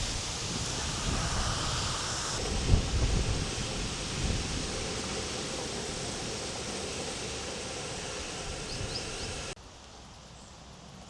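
A steady rushing noise with a few low thumps about two and a half and four seconds in; it drops suddenly to a quieter hiss near the end.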